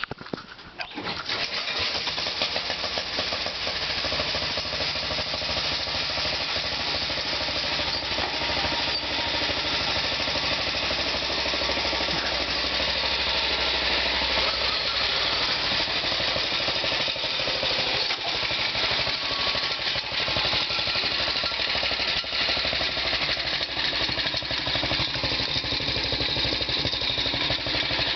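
Engine of a 1969 Sears Custom 10XL pulling tractor on a cold start after sitting for a month: a brief crank, catching about a second in, then running steadily and loudly.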